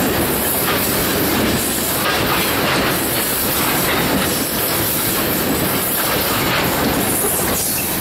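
Tank cars of a Norfolk Southern freight train rolling past at a grade crossing, a steady clatter of wheels with irregular clicks over the rail joints.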